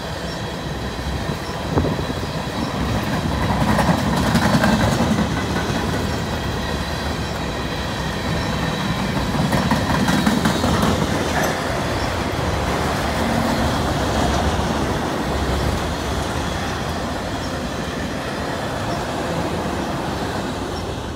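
Freight cars of a passing freight train rolling by at close range: continuous steel wheel-on-rail rumble with clicks over the rail joints and a thin, steady high squeal from the wheels. It swells louder twice, about four and ten seconds in.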